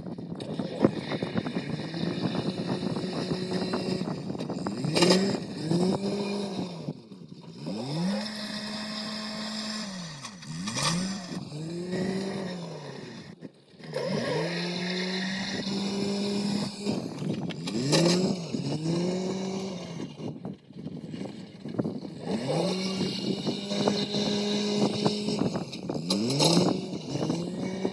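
Engine of a farm machine working a pile of dried corn, revving up and easing off again and again as it moves the load, with a few sharp knocks along the way.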